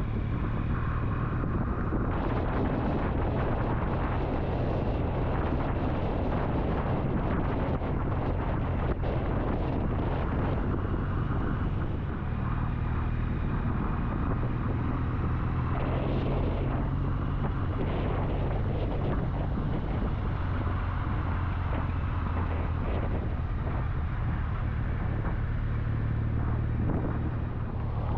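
Triumph motorcycle running at a steady cruising speed, its engine a constant low drone under heavy wind rush on the microphone.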